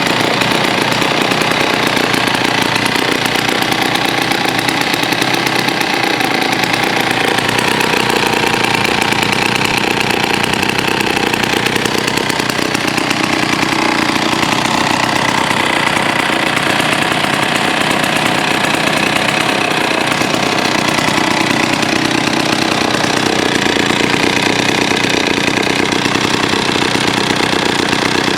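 Pioneer Super 620 103cc two-stroke chainsaw engine running steadily at a fast, even firing rate, freshly rebuilt with a new fuel line and carburetor kit and running well.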